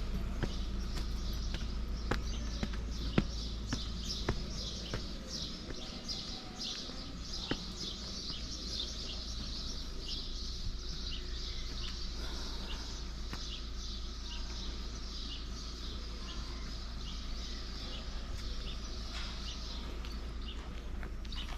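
Many small birds chirping rapidly and continuously, with a few sharp clicks in the first seconds, over a steady low rumble.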